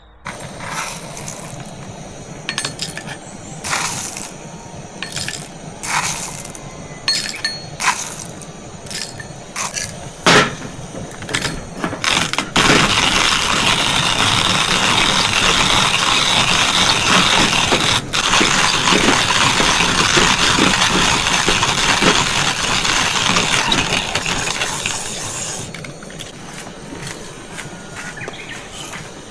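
Scattered clinks and knocks of hard objects being handled, then a steady hiss that starts suddenly about twelve seconds in and dies away near the end.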